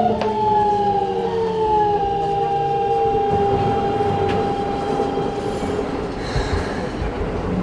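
Keikyu New 1000 electric train's Siemens GTO VVVF inverter whining in several stacked tones that glide downward in pitch as the train slows, then settle into one steady tone that fades out about six seconds in, over the rumble of wheels on rail, heard from inside the passenger car.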